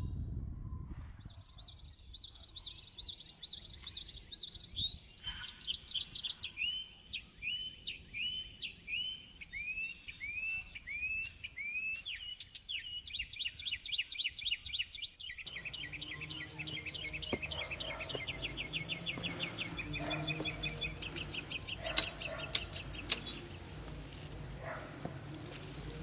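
A songbird singing in repeated series of high notes: first quick high notes, then a run of downward-slurred whistles, then a rapid trill. Midway a steady low background sound joins, and a few sharp clicks come near the end.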